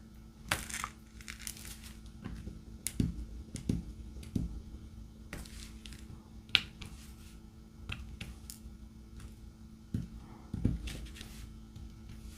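Scattered small taps, clicks and brief rustles from hands working a diamond painting: placing resin drills on the sticky canvas and handling the plastic cover film, with a few soft thumps against the table.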